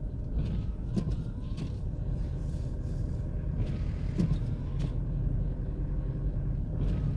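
Car's engine and tyres on a snow-covered road, heard from inside the cabin: a steady low rumble with a few light knocks.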